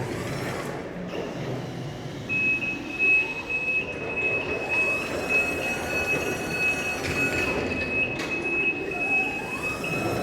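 Electric reach truck working: motor and hydraulic whine rising and falling, with a steady high warning tone starting about two seconds in.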